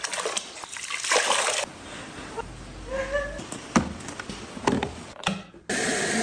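Water splashing and sloshing in short bursts, with several sharp knocks and clicks between them.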